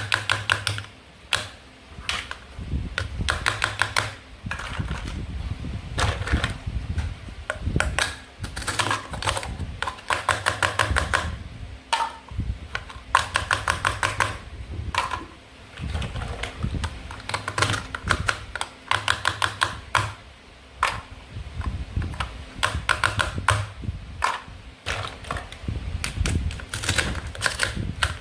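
Toy play food being handled and cut: quick runs of small, sharp plastic clicks and taps, coming in bursts of a second or two with short pauses between.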